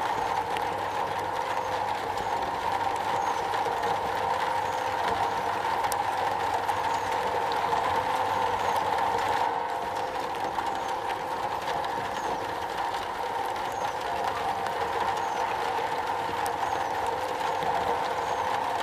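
Steady rain drumming on a metal roof, an even rushing noise with a strong ringing middle, easing slightly about halfway through.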